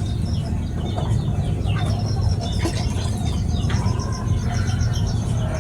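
Small finch-like birds (burung pipit) chirping: many short high calls, with a quick run of repeated notes from about two seconds in. A steady low rumble runs underneath.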